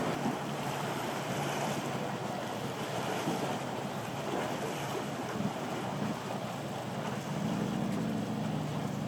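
Motorboat engines running through rough water, over a steady wash of waves and wind on the microphone. A low engine drone fades early on and grows louder again from about seven seconds in.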